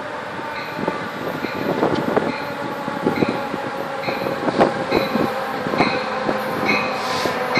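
Passenger train approaching the station: a rising rumble of wheels on rail with scattered knocks and clatter, and a bell ringing about once a second.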